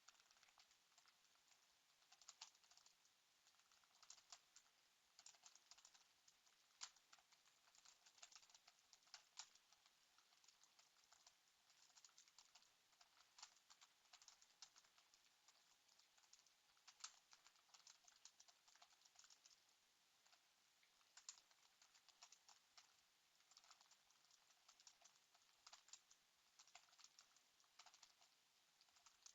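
Faint typing on a computer keyboard: irregular runs of key clicks broken by short pauses.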